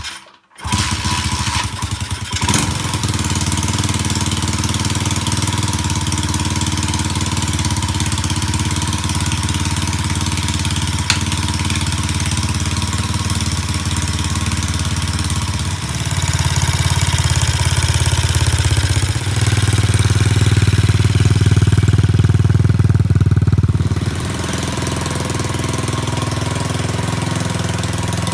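Pit bike engine started up after its repairs, catching almost at once and then running steadily. About halfway through it grows louder, is loudest for a few seconds, then drops back to a steady idle.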